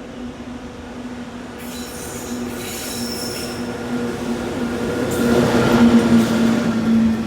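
Container freight train hauled by an EF66 electric locomotive approaching and growing louder, with a steady hum and high-pitched wheel squeal about two to three seconds in; loudest about six seconds in.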